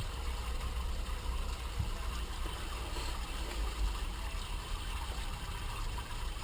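Electric fan running steadily, a constant low rumble with the rush of air.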